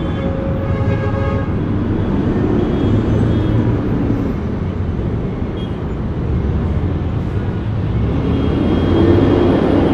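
City street traffic: a steady wash of engines and tyres, with vehicles passing and swelling louder about three seconds in and again near the end. A pitched whine sounds over it for about the first second and a half.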